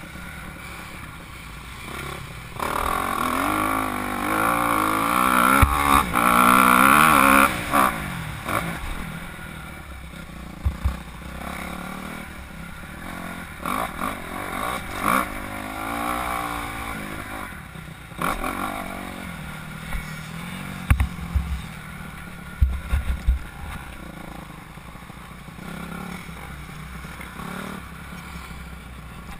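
Honda CRF250R motocross bike engine revving up and down as it rides the track, loudest from about 3 to 8 seconds in as it comes close. It then runs fainter, with further rises and falls in pitch. A few low thumps come through now and then.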